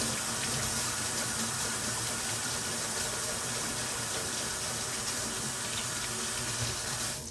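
Kitchen tap running in a steady stream, shut off near the end.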